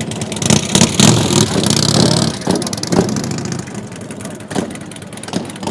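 Motorcycle engine revving loudly for a couple of seconds, then dying down.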